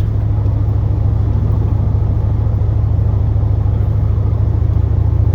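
Plow truck driving, heard from inside the cab: a steady low drone of engine and road noise.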